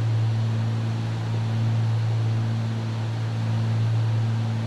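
Steady drone of a Cessna 310's twin piston engines and propellers in flight: a constant low hum over a broad rushing noise, with no change in pitch.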